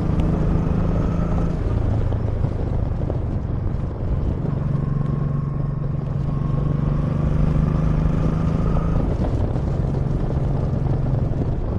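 Motorcycle engine running while riding, with steady wind rush. The engine note drops about a second and a half in and rises again about four and a half seconds in, as the revs change.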